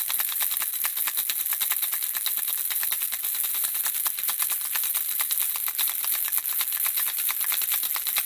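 Handheld baby rattle shaken steadily, the small objects inside clicking in a rapid, continuous, high-pitched rattle.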